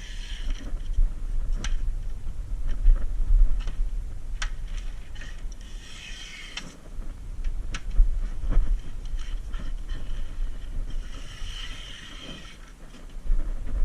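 Compressed-air spray gun hissing in three short bursts several seconds apart while applying rust-proofing coating, with scattered clicks and knocks and a steady low hum.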